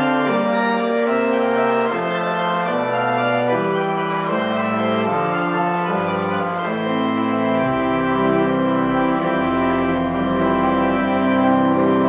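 Organ music: sustained chords that change every second or so, with deep pedal bass notes coming in a little past halfway.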